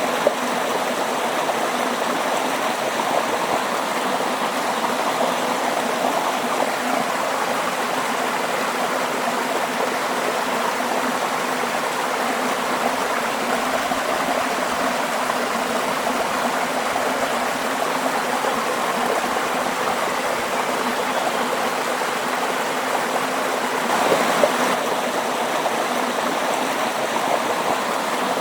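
Waterfall: water pouring and splashing in a steady, unbroken rush, briefly a little louder once late on.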